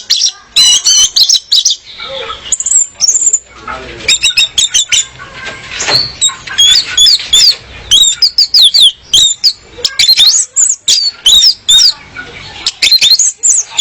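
Female orange-headed thrush calling, used as a lure to draw a male. Quick runs of high, sharp notes at first, then a long series of short, high whistled notes that swoop up and down, repeated in quick succession.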